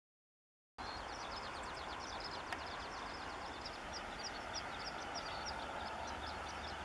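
A songbird singing a fast, unbroken stream of short high chirps over a steady outdoor hiss and low rumble, starting suddenly about a second in.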